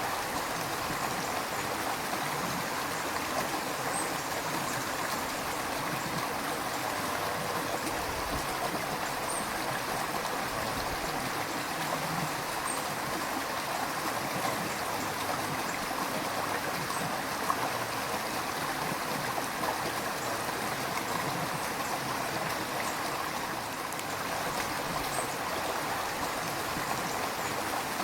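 A river flowing and burbling over rocks, a steady rush of running water with small gurgles and splashes.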